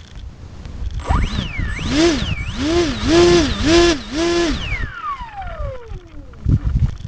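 Art-Tech Cessna 182 RC plane's electric motor and propeller run up on the throttle: a rising whine that surges up and down about four times, then winds down in a long falling whine as the throttle is closed.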